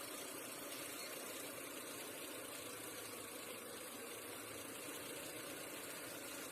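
Car engine idling steadily, with a steady hiss over it. The engine is carrying the electrical load of a 2200-watt kettle running from a 12 V to 220 V inverter.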